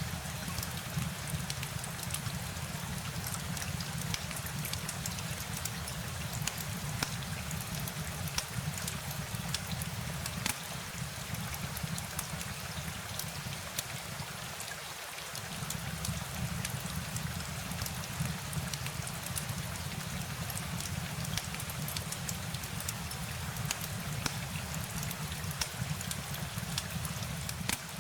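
Steady rain falling, with many small distinct drop taps over a constant hiss and a low rumble underneath that fades briefly about halfway through.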